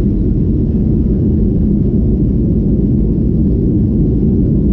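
Steady loud low rumble inside the cabin of a Boeing 737-800 airliner: the noise of its CFM56 jet engines and the airflow, heard from a passenger seat.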